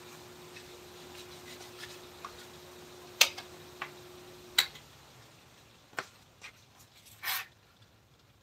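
A handful of sharp knocks and clicks, with a short scraping burst near the end, over a steady low hum that cuts off about four and a half seconds in.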